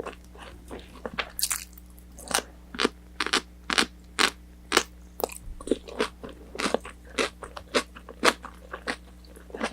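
Close-miked chewing of crispy battered orange chicken: a steady run of loud crunches, about two a second.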